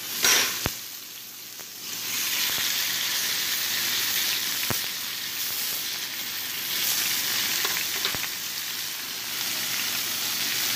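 Raw chicken breasts sizzling on a hot, oiled ridged grill pan as more pieces are laid in, with a short loud burst of sizzle just after the start. A few light clicks of metal against the pan.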